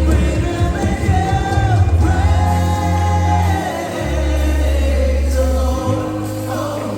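Gospel worship music: a choir of voices singing long held notes over a band, the bass sustaining deep notes that change every second or two.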